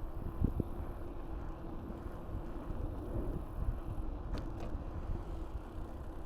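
Mountain bike riding along, its tyres and frame rumbling under wind buffeting on the action camera's microphone, with a few light clicks, two of them about four seconds in.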